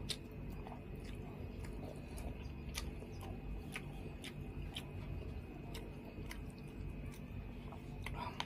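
Close-miked chewing and lip smacking as a man eats rice with soft beef-skin crackers, tofu and chayote, with many short wet mouth clicks scattered irregularly over a low steady hum.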